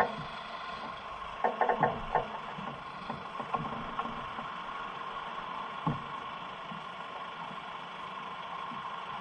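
Motorcycle engine running steadily, with a short burst of loud rapid pulses, like a rev, about one and a half to two seconds in, and a single knock near the middle.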